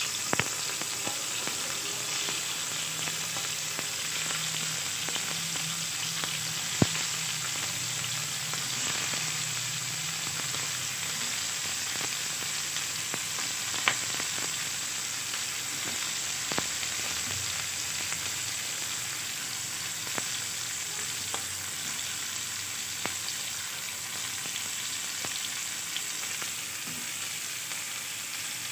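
Prawns shallow-frying in hot mustard oil in a non-stick pan: a steady sizzle, with a few sharp clicks now and then.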